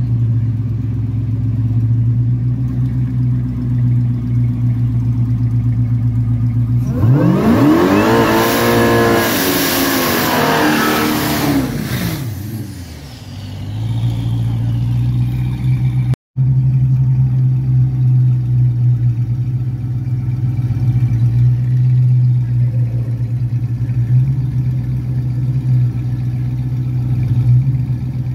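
Dodge Hellcat V8 rumbling at idle, then, about seven seconds in, revved hard through a burnout for about five seconds, its pitch climbing and falling back with loud tyre noise, before settling back to a loud idle. The sound drops out for an instant just after the middle.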